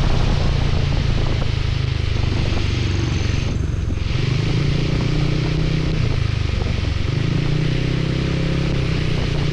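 Motorcycle engine running at a steady cruise under a constant hiss of wind and rain. The hiss dips briefly about three and a half seconds in.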